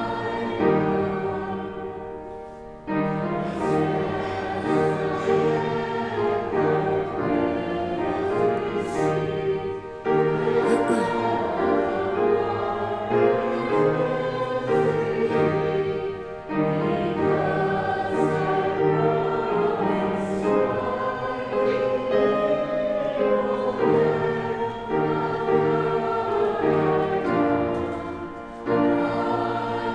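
A group of voices singing a hymn in sustained phrases, with short breaks between the lines about 3, 10, 16 and 28 seconds in.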